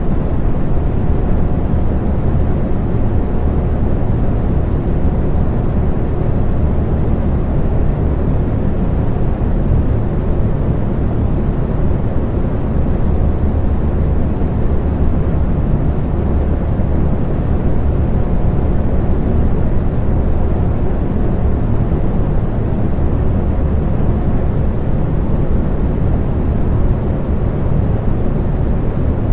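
Electric fan running steadily: a low, even rushing noise with a faint hum.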